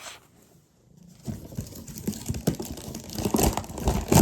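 Irregular crinkling and rustling with many small clicks, starting about a second in and growing louder near the end.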